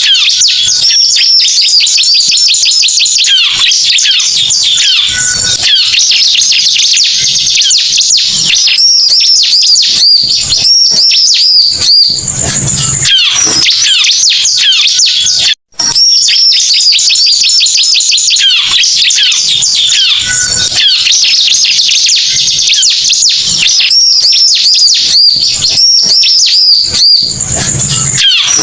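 Bar-winged prinia (ciblek) lure call: a loud, dense run of rapid high chirps and trills, breaking off for an instant about halfway through and then starting again.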